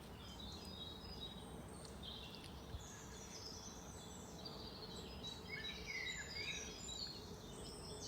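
Faint birdsong: several birds chirping and singing in short high phrases, with a longer sliding phrase about five to six seconds in, over a steady low background rumble.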